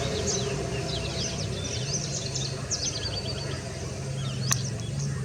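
Small birds chirping and twittering in quick, busy runs of short high notes over a steady low hum, with one sharp click about four and a half seconds in.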